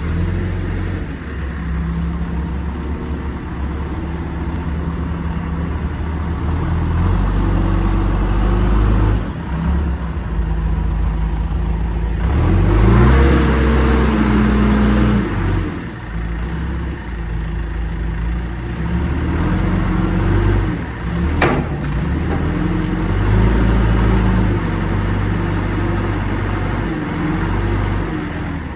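John Deere 310SG loader backhoe's diesel engine running, revving up about halfway through and again a couple of times later, its pitch rising and falling. A brief sharp high sound cuts in about three quarters of the way through.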